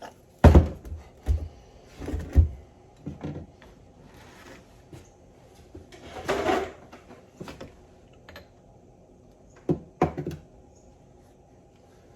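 Knocks and clunks of steering-box parts and tools being handled and set down on a workbench, a dozen or so irregular hits, the loudest about half a second in, with a short scraping rustle around the middle.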